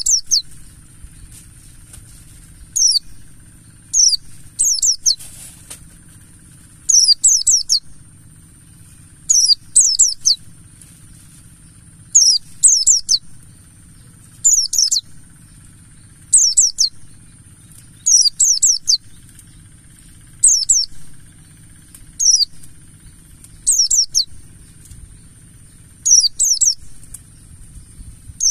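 Buxtoni white-eye (pleci) singing: short, very high twittering phrases of a few quick sliding notes, repeated about every one to two seconds. A faint steady low hum runs underneath.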